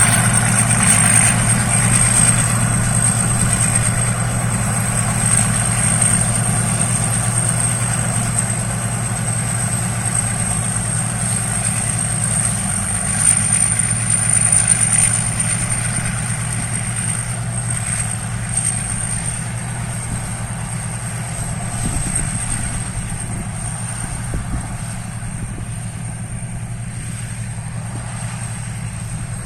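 Rice combine harvester's engine running steadily, with a thin high whine above it, slowly getting quieter.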